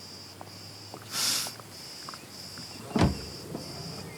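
A man sniffing the air in a short sharp breath through the nose about a second in, followed by a brief thud about three seconds in. Crickets chirp in a steady pulsing rhythm underneath.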